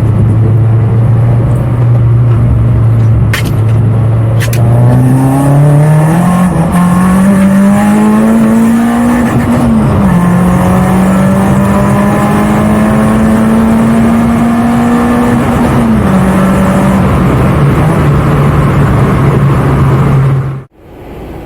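Renault Clio track car's engine with a decatted exhaust, loud and close. The note holds low, climbs steadily as the car accelerates, and drops twice at gear changes, about ten and sixteen seconds in, before easing lower. The sound cuts off suddenly near the end.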